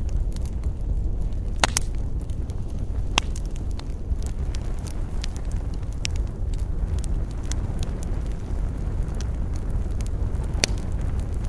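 Wood fire crackling, with many sharp pops over a steady low rumble; the loudest pops come about two seconds in, about three seconds in, and near the end.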